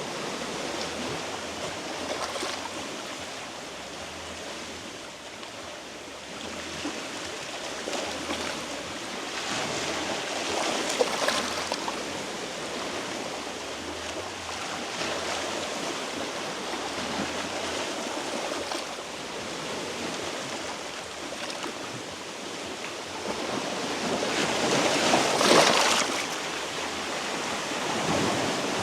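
Sea waves washing over shore rocks, rising and falling, with louder surges about a third of the way in and near the end.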